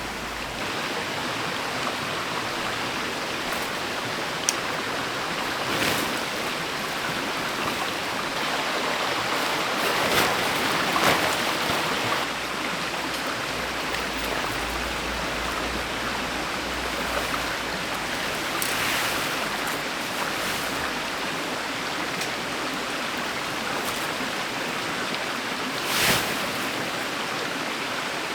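Steady rushing of a mountain stream, with a few brief louder swells and a sharp tick about four and a half seconds in.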